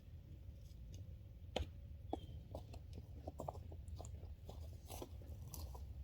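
Footsteps crunching irregularly on a trail, over a steady low rumble.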